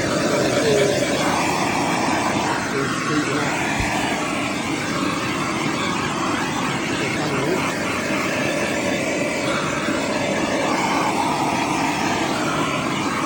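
A steady, unbroken mechanical whirring noise, like a motor or blower running, with no clear rhythm or change in pitch.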